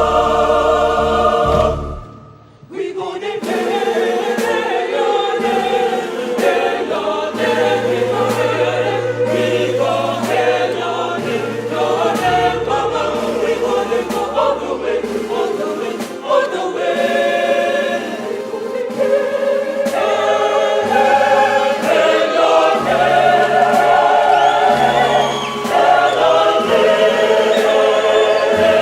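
Choir singing a gospel song in several-part harmony over deep held bass notes, with a brief break about two seconds in before the singing resumes.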